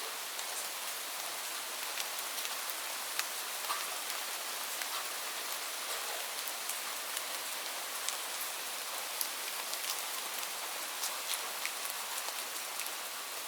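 Steady rainfall: an even hiss of rain with many individual drops ticking sharply on a nearby surface at irregular moments.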